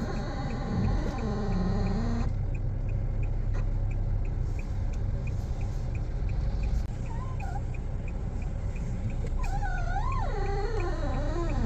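Fiat Argo/Cronos front suspension making a wavering, whine-like groan in two spells, at the start and again near the end, over a steady low engine rumble and an even fast ticking. It is the suspension noise that appears only once the car is warm and always on the right side.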